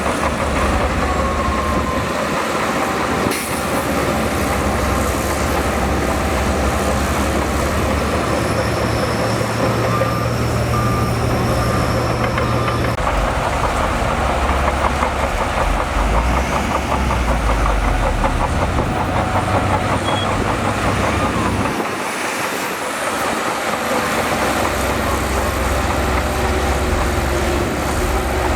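Heavy diesel earthmoving machinery running steadily under load, its low engine note shifting several times and dipping briefly about twenty-two seconds in.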